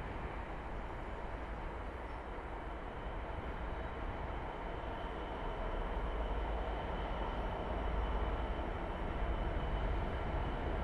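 Freight train rumbling through a station, the low rumble steady at first and growing louder in the second half as it comes closer.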